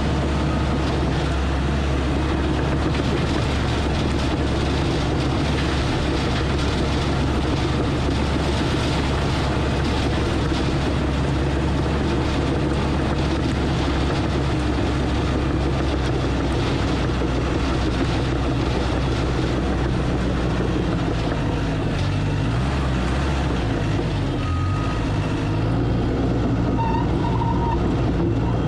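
Diesel engine of heavy earthmoving equipment running steadily, with its pitch shifting briefly about three-quarters of the way through.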